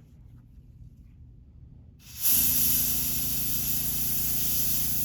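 Airbrush spraying paint: a steady, loud hiss of air that starts suddenly about two seconds in, with a steady low hum underneath.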